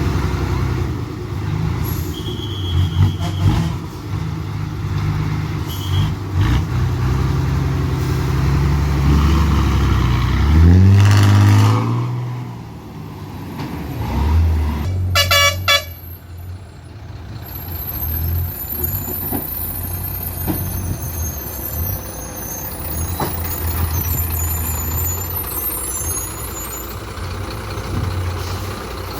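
Heavy loaded truck engines running and labouring. One revs up with a rising pitch about ten seconds in, and a short, rapidly pulsing horn blast sounds about halfway through.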